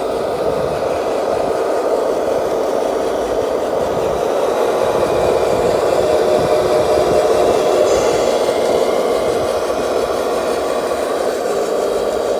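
Electric motor and gearbox of a 1/14-scale RC truck running steadily with a continuous whir, swelling slightly in the middle and easing off near the end.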